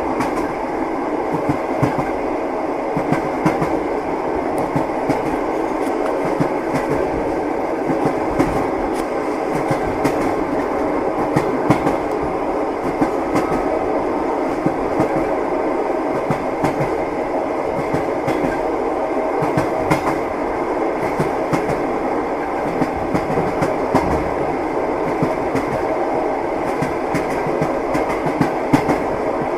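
Train wheels knocking over rail joints: a steady rolling rumble dotted with frequent short clicks and clacks.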